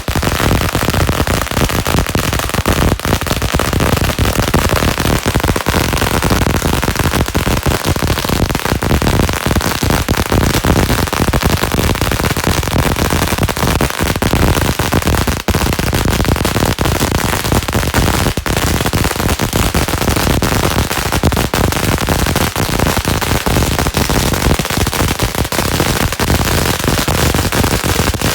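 A long string of firecrackers going off in a loud, rapid, unbroken crackle of bangs.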